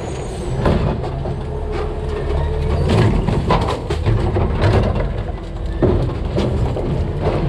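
Household garbage dumped into a DaDee Scorpion side-loader's hopper, knocking and clattering in a rapid string of hits. The truck's engine runs underneath.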